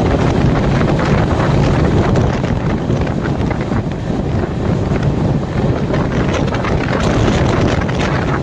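Indian Railways superfast express train running at speed: a steady, loud rumble of wheels on rails, with wind buffeting the microphone.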